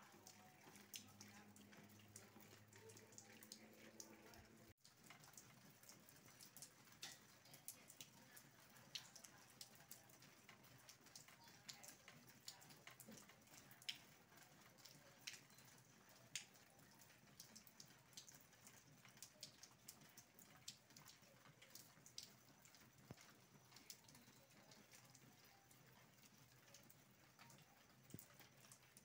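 Faint rain: scattered drops ticking and dripping, irregular sharp ticks over a soft steady hiss.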